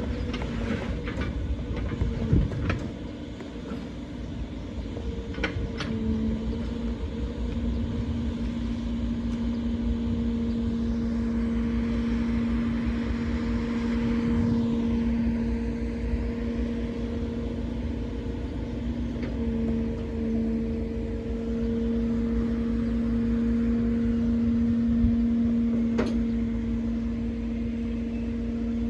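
Truck engine running steadily to power the truck-mounted loader crane, a constant hum, with a few sharp clicks in the first couple of seconds and a single knock near the end.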